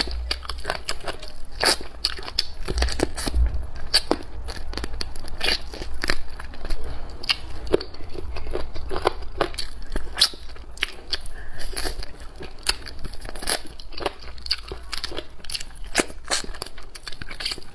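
Close-miked eating of salt-baked chicken: wet chewing and biting with many small sharp mouth clicks and crackles, and the soft tearing of meat pulled from the bone by hand.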